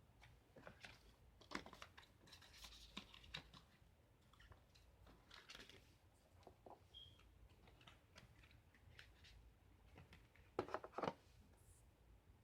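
Faint scattered rustling, scraping and light taps of packaging being handled during an unboxing, with a short cluster of louder clicks about ten and a half seconds in.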